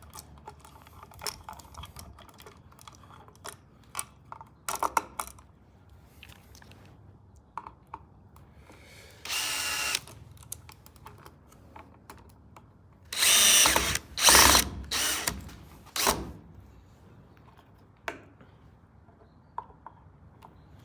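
Power drill driving the outlet's mounting screws into the electrical box in short runs: one brief run about nine seconds in, then four quick runs close together a few seconds later. Light clicks and knocks of the outlet being pushed and handled come before.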